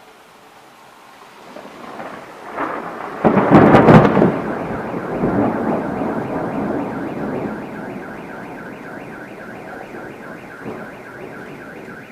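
A close thunderclap: a rumble builds over about two seconds into a loud crack, then rolls on and slowly fades. About a second after the crack an alarm starts up with a fast pulsing electronic tone and keeps going.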